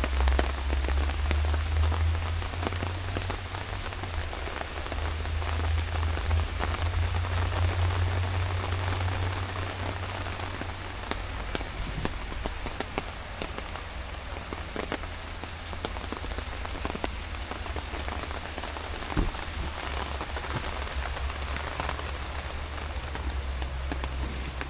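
Heavy rain pouring steadily, with many sharp individual drop taps through the hiss. A low rumble sits under it, heaviest in the first half.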